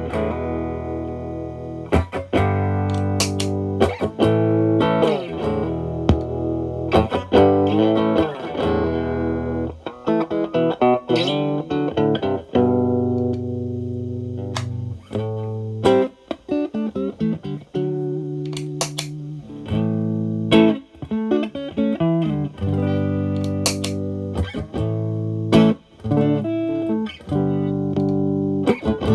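Stratocaster played through a Xotic AC Plus overdrive with channel A switched on at zero gain, into a Marshall Valvestate amp. Single-note phrases and chords, picked, with string bends and short pauses between phrases.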